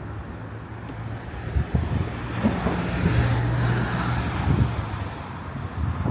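Street traffic: a motor vehicle's engine running close by with a steady low hum, growing louder for a moment about three seconds in, with a few short thumps.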